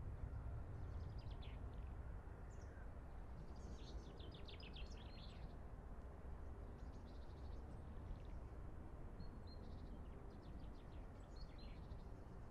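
Small birds chirping in short scattered bursts of high calls over a steady low background rumble.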